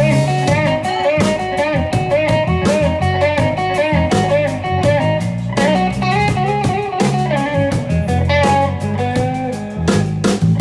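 Live blues band playing an instrumental passage: a lead electric guitar plays bent, wavering notes over bass and a drum kit.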